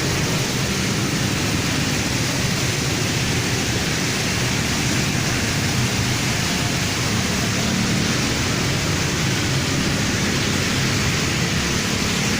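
Heavy rain falling in a steady hiss, with the low sound of traffic engines and tyres on the wet road beneath it.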